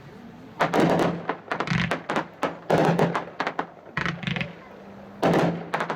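Wanderlust, a 36-shot 500-gram consumer firework cake, firing shot after shot: sharp thumps of tubes launching, about a dozen over a few seconds, some close together as two cakes fire at once.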